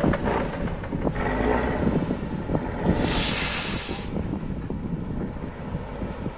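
Heavy off-road truck running with a low rumble and scattered knocks, and about three seconds in a loud burst of compressed air hissing for about a second, like an air-brake release.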